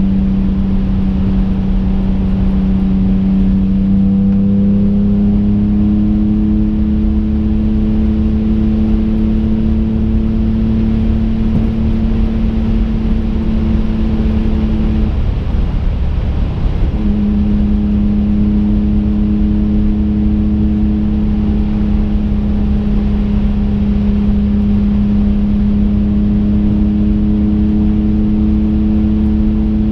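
Twin-turbocharged 3.5-litre V6 of a modified 2005 Infiniti G35 coupe, heard from inside the cabin while driving at a steady pace with a steady drone. About halfway through the engine note drops out for a couple of seconds, then resumes at much the same pitch.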